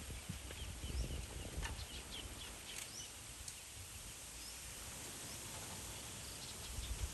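Small birds chirping in short, high calls, clustered in the first half, over a steady outdoor hiss. A few low knocks and rumbles sound in the first second or so.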